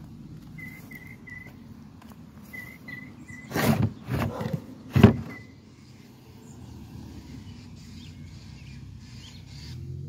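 A bird chirping in short, evenly pitched notes, in twos and threes, over a steady outdoor background hum. Loud rustling bumps come about three and a half to five seconds in.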